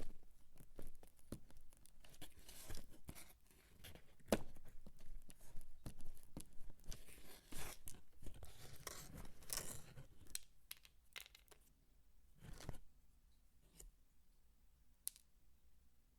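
Dry soap peelings being crumbled and crunched by hand close to the microphone: dense, crisp scratching and crunching that thins out after about ten seconds into a few scattered sharp clicks.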